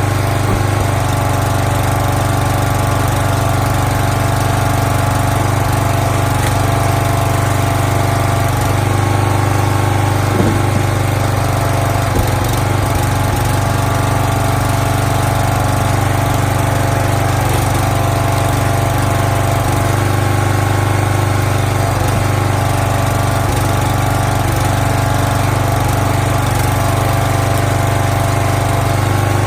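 Small gas engine of a log splitter running steadily at constant speed, with a couple of light knocks about ten and twelve seconds in.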